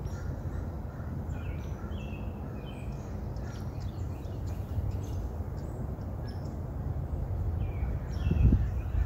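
Birds chirping in short, scattered calls over a steady low rumble, with a brief louder rumble near the end.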